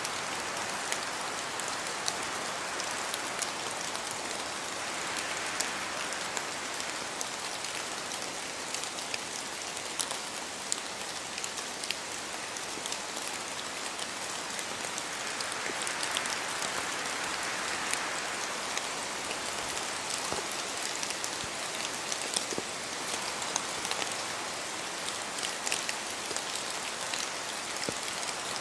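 Steady rain falling in a forest, with many individual drops ticking sharply over the even hiss. The rain swells softly twice, once early and again about halfway through.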